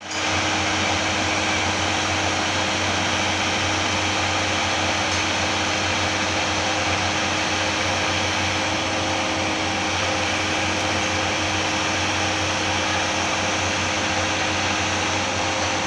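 A machine running steadily at constant speed: an even rushing noise with a steady low hum, unchanging throughout.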